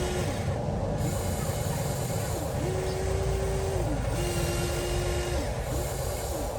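Electric motors of a radio-controlled toy excavator whining in short spells of about a second each. Each spell starts and stops with a quick glide in pitch as a control is worked, over a steady rumbling noise.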